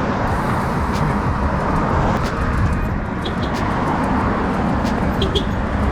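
Steady road noise of highway traffic going by.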